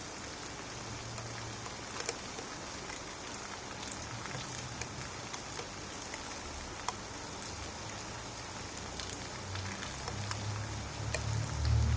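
Steady rain falling, with scattered sharper drop impacts. A low rumble of thunder starts to build in the last couple of seconds.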